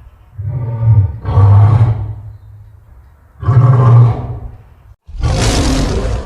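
Edited roar sound effects of the lion and monster kind: deep roars rising and fading twice in the first two seconds and again about three and a half seconds in, then a harsher, noisier roar that starts about five seconds in and cuts off abruptly near the end.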